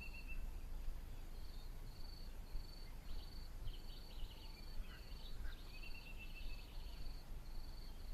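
Quiet outdoor ambience: an insect's high trill pulsing about twice a second, with bird chirps and two longer whistled bird notes over a low rumble.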